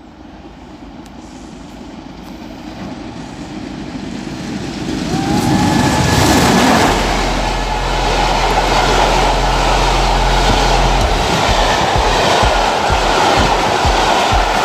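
A train approaching and passing close by. It grows steadily louder, with a brief falling tone about five seconds in, then runs on as a loud, steady rumble, and near the end comes a regular clickety-clack of its wheels over the rail joints.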